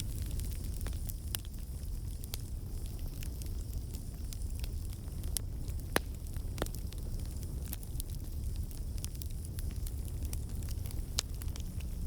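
Campfire burning: a steady low rumble and hiss with irregular sharp crackles and pops from the burning wood, one louder pop about halfway through and another near the end.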